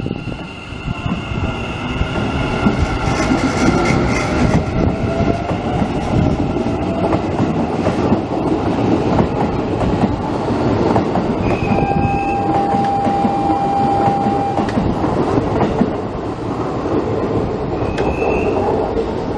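Electric train rolling through a railway station, its wheels rumbling and clacking over the rails, with short high wheel squeals. A steady tone sounds for about three seconds midway.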